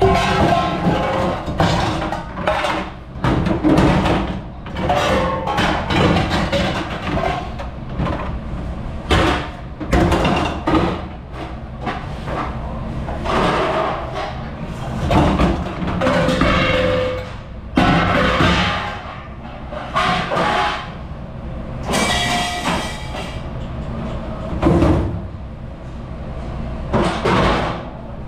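Dishes, trays and utensils clattering and knocking irregularly over a steady low rumble of running dish-room machinery and water.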